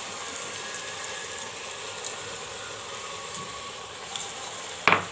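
Steady sizzling hiss of vegetables, spices and rice frying in an aluminium pressure cooker. Near the end a metal spoon knocks sharply against the cooker twice as stirring begins.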